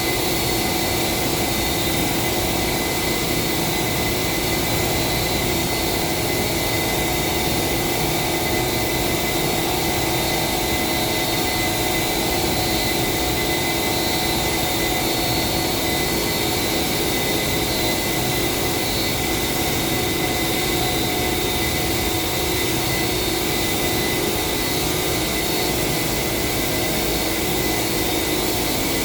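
Steady, unbroken machine noise: a constant whine of several fixed tones over a hiss, unchanging throughout.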